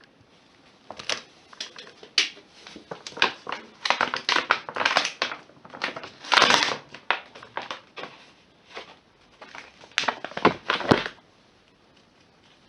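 Irregular rustling, crinkling handling noises with light knocks, coming in bursts for about ten seconds and stopping near the end.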